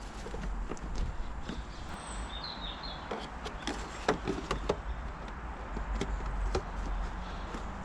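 Scattered light clicks and knocks of hands and tools working on the battery connections and plastic parts under the bonnet, over a low steady rumble, with a few bird chirps about two seconds in.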